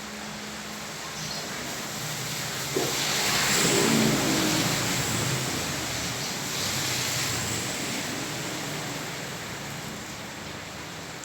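Steady heavy rain on a flooded street, with a motor vehicle driving through the standing water. Its engine and the wash of its tyres in the water rise from about two and a half seconds in, peak near four seconds, and fade by the end.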